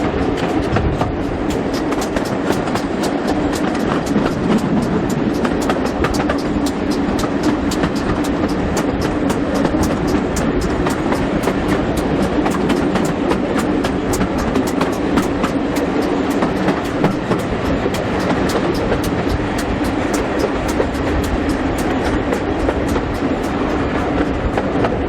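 Steam-hauled heritage train running along the line: a steady rumble and rush of wheels on rail, with frequent sharp clicks throughout.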